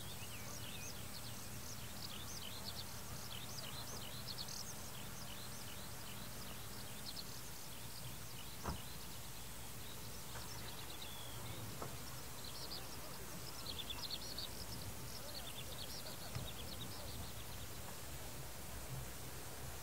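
Small birds singing in quick, high chirping phrases, heaviest early on and again in the second half, over a steady low outdoor background rumble. One sharp click a little under nine seconds in.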